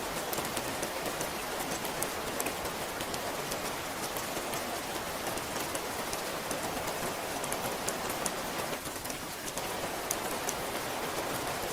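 Steady rain falling: an even hiss with many sharp ticks of single drops striking close by, briefly a little softer about nine seconds in.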